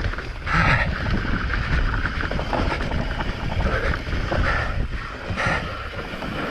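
Mountain bike on a fast downhill descent: wind rushing over the microphone and the bike rattling over rough ground, with short louder surges about once a second.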